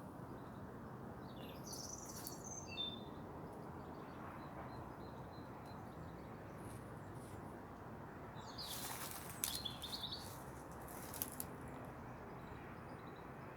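Small birds chirping a few times, about two seconds in and again in a cluster around nine seconds, over a faint steady outdoor background noise.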